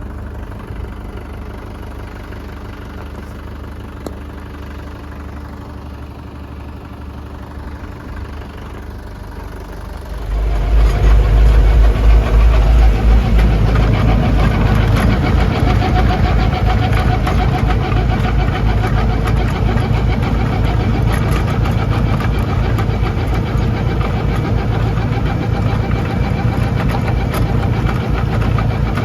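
Lovol 504 diesel tractor engine running at low speed, then revving up sharply about ten seconds in and running hard and steady, as when the tractor drives the Dalen snowblower.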